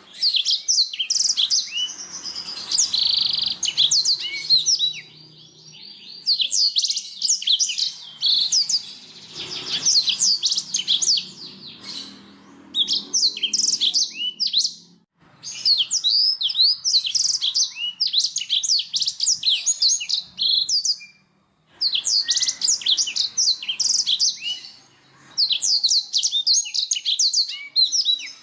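Domestic canary singing: rapid chirps and trills in long phrases, broken by short pauses about five, fifteen, twenty-one and twenty-five seconds in.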